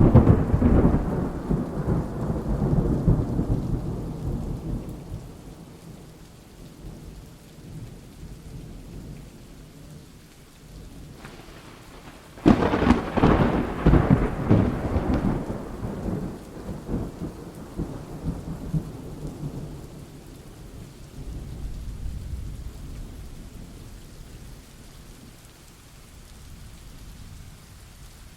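Thunderstorm: a loud rolling rumble of thunder right at the start that dies away over several seconds, then a sharper crack at about twelve seconds in that rolls on and fades, over steady rain.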